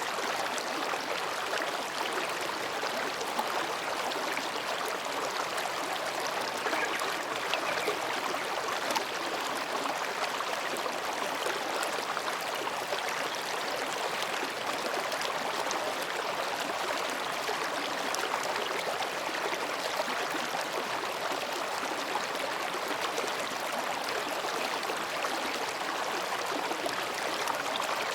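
Mountain stream babbling over rocks: a steady, even rush of water.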